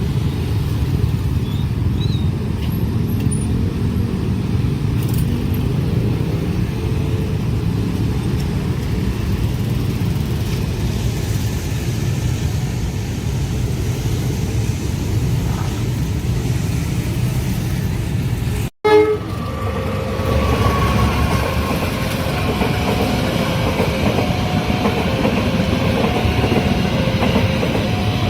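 Train running past on the rails with a heavy, steady rumble. After a sudden cut about two-thirds of the way in, a train rumbles again while two alternating notes repeat over it, and a falling tone sounds briefly.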